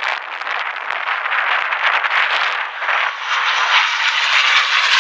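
P-51 Mustang's Packard Merlin V-12 engine on a fast pass, a rough rushing sound that grows louder and takes on a clear engine tone from about three seconds in as the aircraft approaches.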